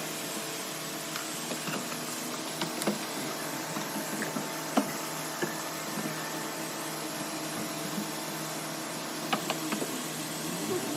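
A small electric motor running steadily, with scattered light clicks and taps.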